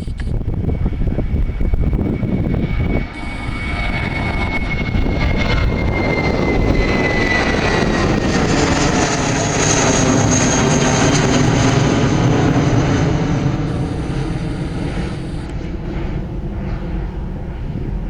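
A jet airliner's engines as it passes close by. A high whine glides down in pitch over the first several seconds while a heavy rumble builds, peaks around the middle and then eases slightly.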